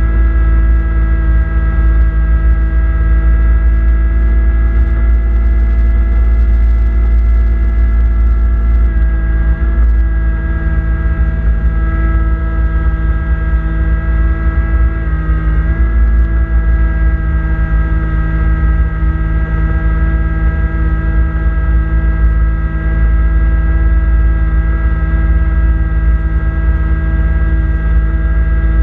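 Kubota B2650 tractor's three-cylinder diesel engine running steadily under load, with a brief dip in pitch about halfway through.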